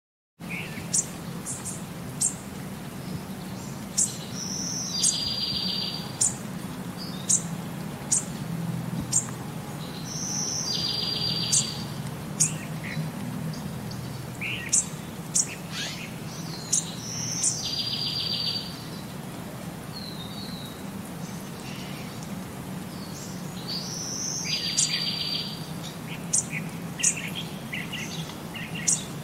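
Birds chirping: scattered short high chirps, and a buzzy trill that comes back about every six seconds, over a steady low hum.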